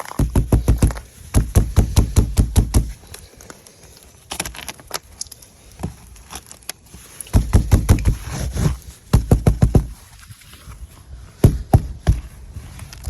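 Ice being chipped and scraped off a truck: loud bursts of rapid hard strokes, about eight to ten a second, in several runs with short pauses between.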